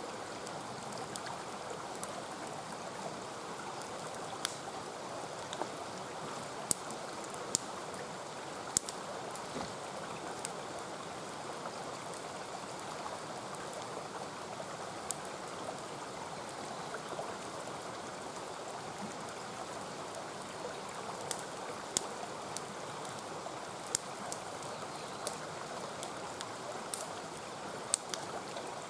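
Campfire crackling with irregular sharp pops over the steady rush of a mountain stream.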